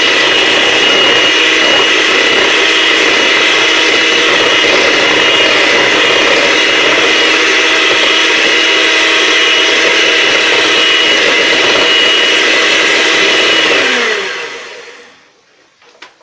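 Electric blender running steadily at high speed as it whips chocolate cake batter, then switched off near the end, its motor winding down with a falling pitch.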